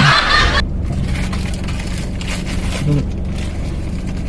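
A loud rushing noise cuts off about half a second in. A steady low engine-like hum carries on under it, as of a car engine running at idle.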